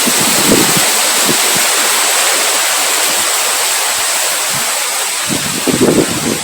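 Strong wind blowing with a steady hiss, low rumbling buffets of wind on the microphone returning near the end.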